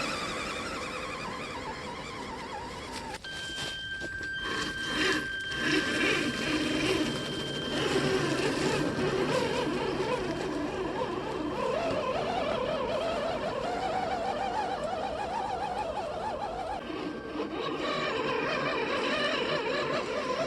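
Electric motor and gearbox of a radio-controlled scale truck whining as it drives, the pitch wavering up and down with the throttle.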